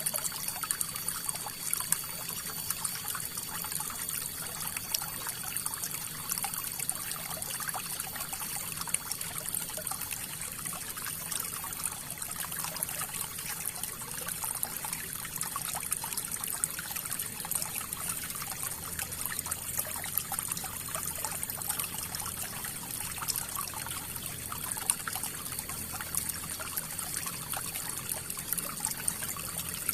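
River water flowing, a steady trickling and splashing with many small brief splashes.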